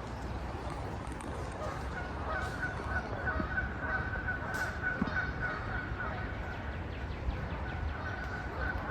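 A bird calling, a rapid run of repeated notes held at one pitch from about two seconds in, over a low rumble of wind on the microphone.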